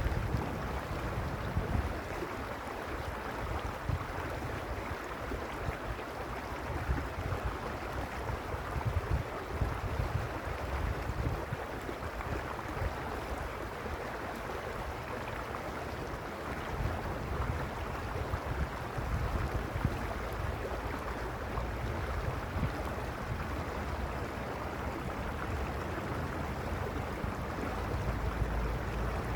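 Mountain stream rushing steadily, with irregular low rumbles of wind buffeting the microphone.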